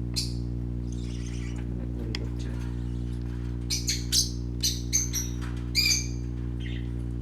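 Pet parakeets, budgies and lovebirds, chirping in short, sharp, high calls, one just after the start and a quick run of them in the second half, over a steady low hum.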